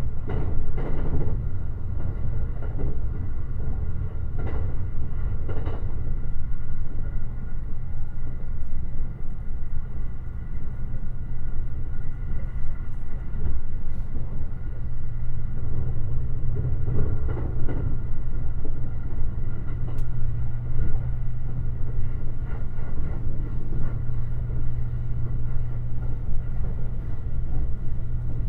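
Limited Express Shirasagi electric train running along the line, heard from inside the passenger car: a steady low rumble of wheels on rail with a constant low hum. A few knocks from the wheels passing over the track stand out, near the start, around five seconds in and again around two-thirds through.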